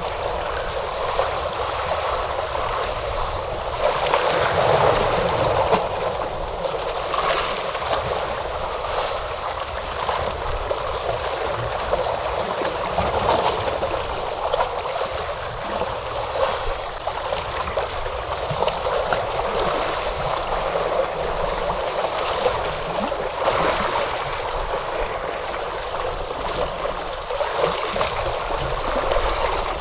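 Ocean waves washing and splashing steadily, swelling a little louder now and then.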